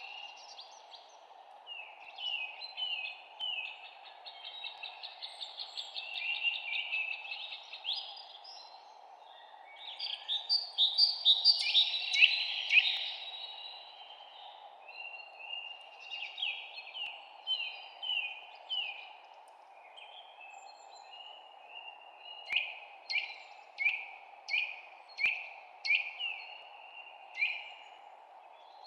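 Songbirds chirping, with a dense flurry of quick calls about ten to thirteen seconds in, the loudest part, and a run of evenly spaced sweeping chirps near the end. A steady hiss runs underneath.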